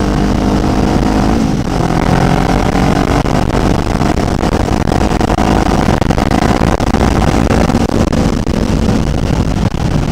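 Kawasaki Ninja 500's parallel-twin engine running as the bike rides along, with wind noise on the microphone. The engine pitch drops about a second and a half in, then holds fairly steady.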